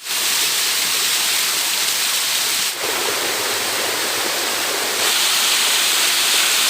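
Waterfall: a loud, steady rush of falling water, its tone shifting slightly twice, a little before halfway and about three quarters through.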